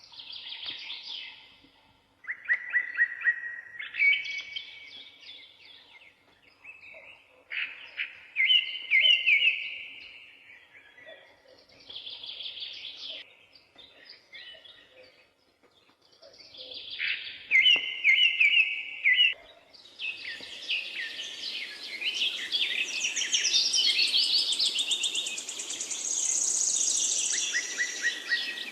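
Songbirds singing in short repeated phrases with brief pauses between them. About twenty seconds in, denser overlapping song over a steady hiss takes over.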